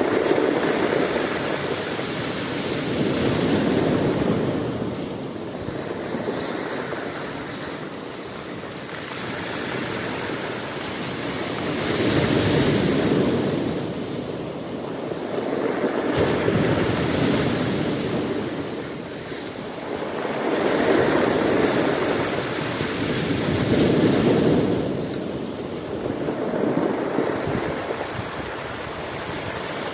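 Sea waves breaking and washing on a shore, the surf swelling and falling back again and again every few seconds.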